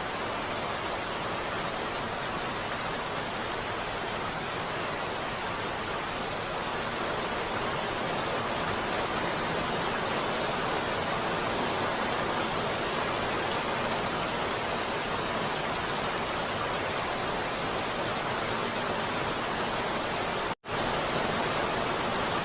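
Heavy rain falling steadily, an even hiss with no single drops standing out. It cuts out for an instant about twenty seconds in, then carries on.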